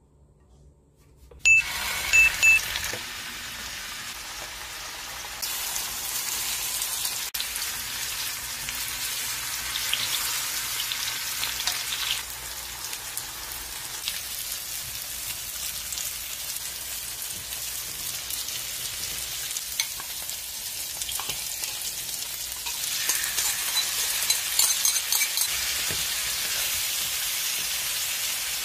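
Food frying in a hot pan, a steady sizzle that rises and falls. It starts suddenly about a second and a half in with a few loud sharp sounds, and grows louder and more crackly near the end.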